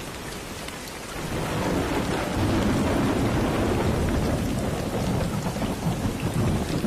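Steady rain with a roll of thunder that swells about a second in and keeps rumbling low.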